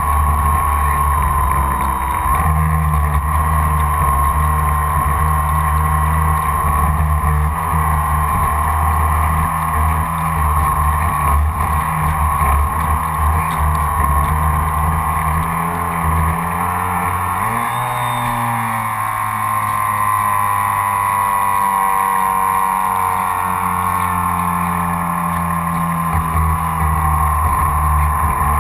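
Graupner 700 BB Turbo electric motor of an RC speed boat whining steadily at speed through its surface-drive prop, heard from on board with water rushing past the hull. A little past halfway the pitch dips and shifts, then the run settles again.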